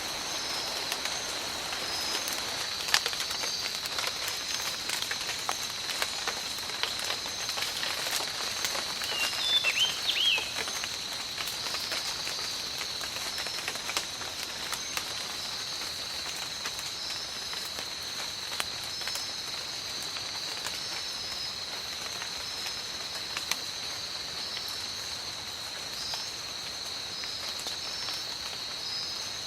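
Steady tropical rainfall, with individual drops pattering close by, over a constant high-pitched drone. There is a brief chirping call about ten seconds in.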